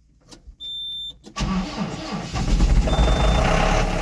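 A steady electronic warning beep sounds for about half a second, then a tractor engine cranks and starts about a second and a half in and settles into a steady idle. A second short beep sounds near the three-second mark.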